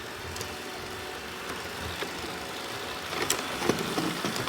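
Robot vacuum running with a steady mechanical noise, with a few sharp knocks and clicks in the last second and a half.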